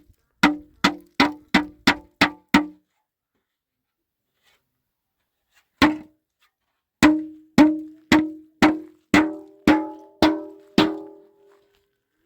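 Hammer blows, each ringing briefly: a run of seven at about three a second, one lone blow in the middle, then a run of eight more.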